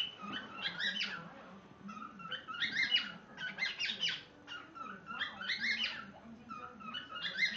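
Cockatiel chirping and chattering in several short bursts of quick, pitch-bending calls.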